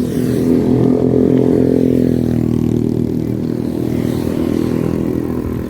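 Engine of a nearby motor vehicle running steadily on the highway, its pitch dipping slightly about two seconds in.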